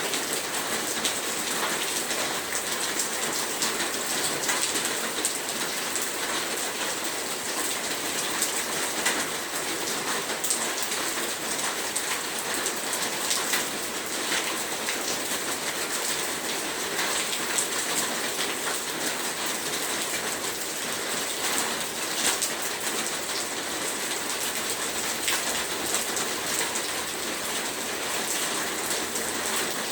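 Heavy rain falling steadily, a dense hiss of drops with many small individual splats and patters on a surface.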